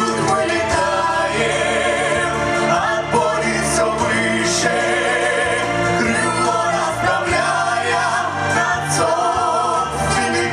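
A vocal ensemble singing a song over instrumental backing with a steady bass line and light percussion.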